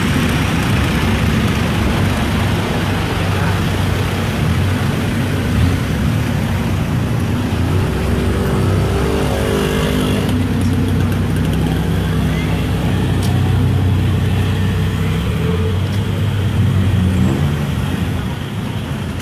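Car and pickup engines running in slow traffic, a steady low engine sound throughout, with one vehicle passing close about eight to ten seconds in.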